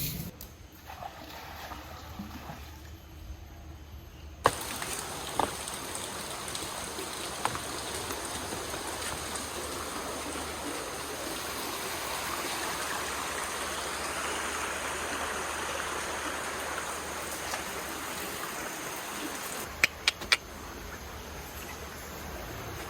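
Steady rush of flowing water, as from a stream or small waterfall, with a few sharp clicks.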